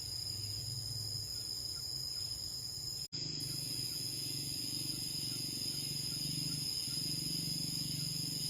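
Steady high-pitched chirring of insects such as crickets, with a low hum beneath; the sound cuts out for an instant about three seconds in.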